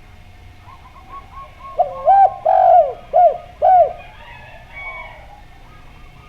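Doves cooing: a faint run of quick, short notes, then a loud phrase of about five rounded coos about two seconds in, the middle coo drawn out longer.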